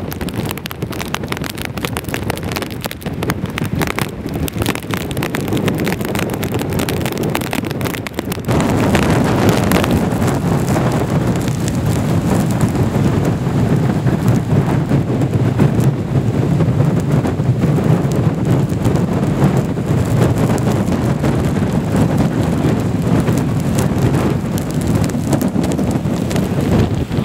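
Storm wind from Hurricane Irene buffeting the microphone, with rain: a steady rushing noise that grows louder and heavier about eight seconds in.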